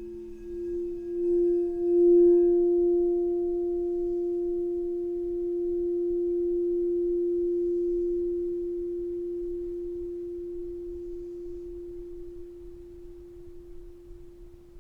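Singing bowl ringing with one steady, nearly pure tone that swells over the first two seconds and then slowly fades. A lower bowl tone left over from an earlier strike dies away in the first seconds.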